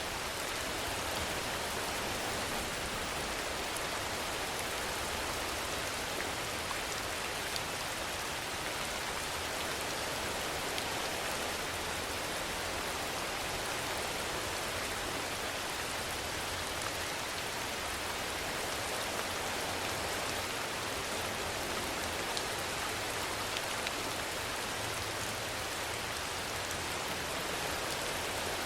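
Steady rain falling: an even hiss with scattered faint drop ticks, holding constant without rising or falling.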